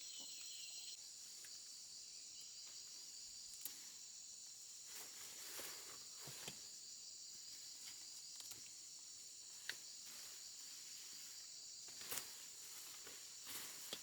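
A steady, high-pitched chorus of insects chirping, with scattered short rustles and snaps over it.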